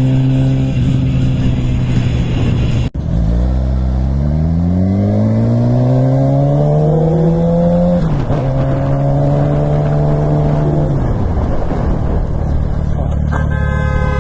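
Motorcycle engine under way with wind noise: after a brief dropout about three seconds in, it revs up steadily for several seconds, shifts, holds steady, then eases off. A steady horn-like tone sounds near the end.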